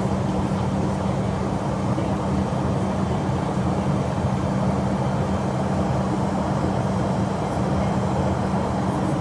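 Jet airliner engine and airflow noise, a steady loud rumble with a constant hum underneath.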